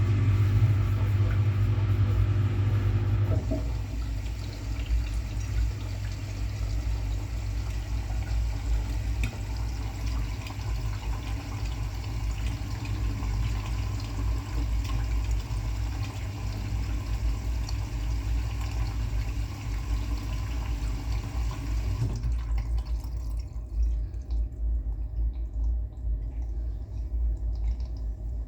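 Washing machine taking in water at the start of a wash cycle: a steady rush of water over a low hum. About 22 s in the inflow stops, leaving a low rumble.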